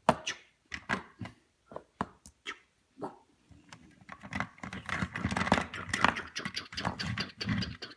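Small plastic toy figures and a toy vehicle being handled: separate sharp clicks and knocks, then from about four seconds in a busier stretch of rattling and scraping.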